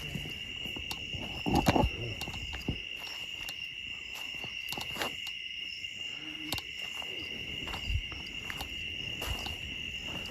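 Steady chorus of night insects such as crickets: a constant high, even drone. Scattered light clicks sound over it, and there is a brief louder low sound about one and a half seconds in.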